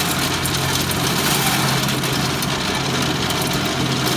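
Hand-cranked corn sheller stripping the kernels off an ear of corn, a steady dense rattle of kernels and spiked wheels, over the steady hum of an engine running.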